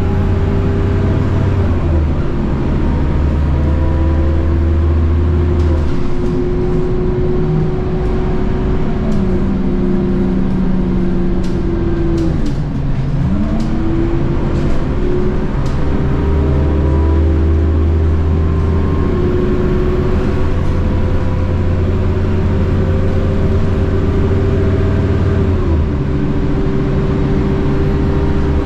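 Scania K230UB bus's DC9 diesel engine and ZF Ecomat automatic gearbox under way: the engine note steps with gear changes, falls away near the middle as the bus slows, then climbs again as it pulls away, with a steady whine above it.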